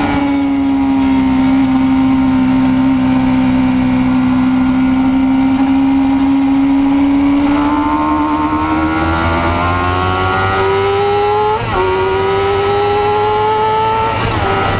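Racing motorcycle engine heard from onboard, holding a steady note for about half the time, then rising steadily under acceleration, with a brief break in the note about two-thirds through. Wind rush on the microphone throughout.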